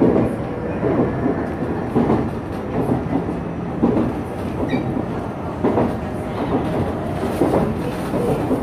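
Shizuoka Railway electric train running, heard from on board: a steady rumble with wheels clicking over rail joints roughly once a second.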